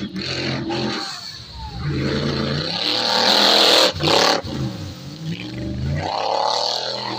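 Off-road rally car engine revving hard, its pitch rising and falling. It is loudest about three to four seconds in, with a brief cut in the sound near four seconds.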